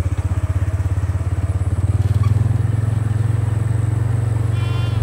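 Small off-road vehicle's engine running steadily with an even low pulsing, growing slightly louder over the few seconds.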